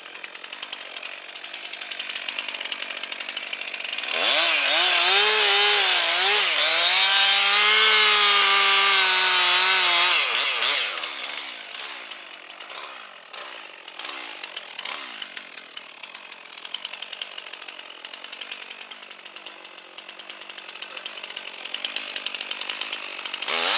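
Two-stroke chainsaw cutting wood. It runs loudly at high revs for about six seconds, its pitch wavering under load, then drops back to a quieter, lower running.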